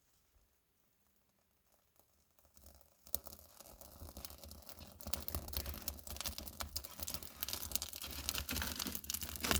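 Dry birch bark crackling and tearing, starting about three seconds in and growing denser.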